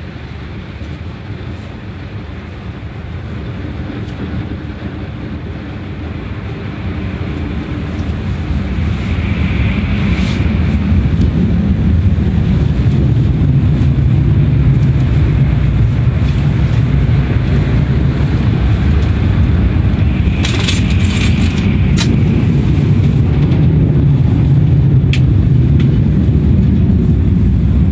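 Car wash machinery running with a loud, steady rumble that builds over the first dozen seconds and then holds, with a few sharp knocks about twenty seconds in.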